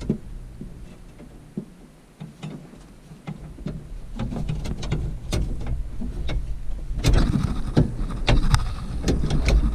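Scattered metal knocks, clinks and scrapes as a part is wrestled into a round hole on a tractor, over a low rumble that grows louder from about four seconds in.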